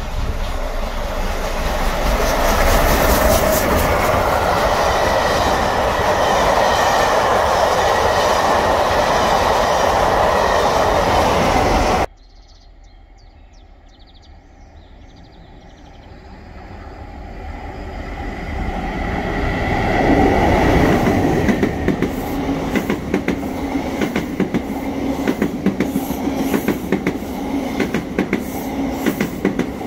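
A loud steady rushing noise for about twelve seconds, then after a sudden cut a passenger train is heard approaching, its sound building up until a High Speed Train set passes close by. Its coaches run past with a rapid, regular clickety-clack of wheels over rail joints over a steady engine drone.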